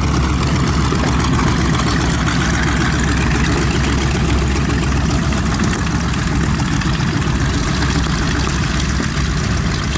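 Large radial piston engines of a vintage multi-engine aircraft running with a steady, deep drone.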